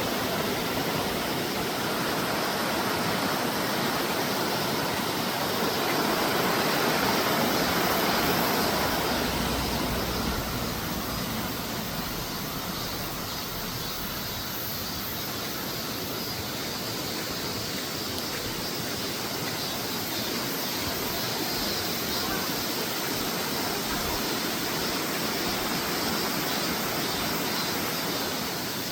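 Mountain valley stream rushing over rocks: a steady rush of water that swells slightly a few seconds in.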